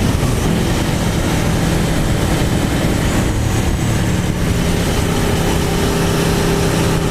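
Aprilia Tuono V4 Factory's V4 engine running at a steady, even pitch while riding, with wind rushing over the on-bike microphone.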